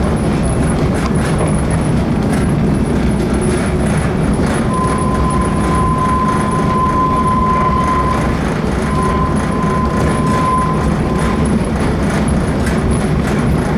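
Vintage passenger train running along the rails: a steady heavy rumble with faint scattered clicks. About a third of the way in, a thin high squeal comes in and holds for several seconds, breaks briefly, then fades out.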